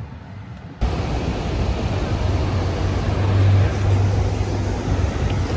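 A loud, steady rushing noise with a deep low rumble, cutting in abruptly about a second in.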